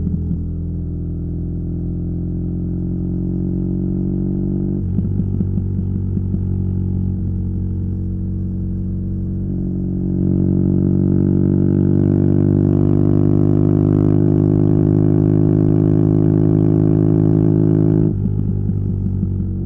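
BMW R nineT's air/oil-cooled boxer twin running through a Competition Werkes slip-on exhaust while riding, its pitch climbing slowly under throttle. It breaks off about five seconds in and picks up again, gets louder from about halfway as it pulls harder, and drops back near the end as the throttle closes or a gear changes.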